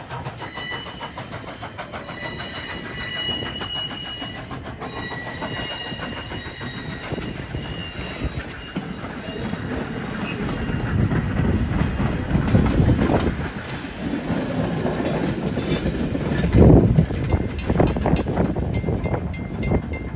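Canadian National No. 89, a 2-6-0 steam locomotive, sounding its chime whistle in several long blasts over the first six seconds, then approaching and running past with a rising rumble and clatter of wheels on the rails, loudest about three-quarters of the way through.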